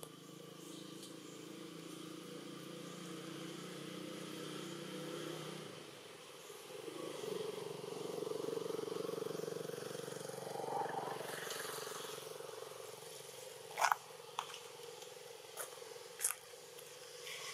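Motor vehicle engines running in the background: first a low steady hum, then a higher engine tone from about six seconds in. Several sharp clicks or knocks follow in the last few seconds.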